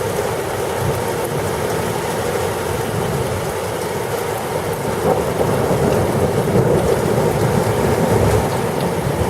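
Heavy thunderstorm rain pouring steadily, with a low rumble of thunder underneath; it grows a little louder about halfway through.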